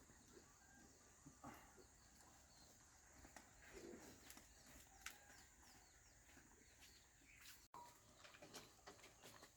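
Near silence: faint background tone with a thin steady high hiss and a few scattered small clicks and taps.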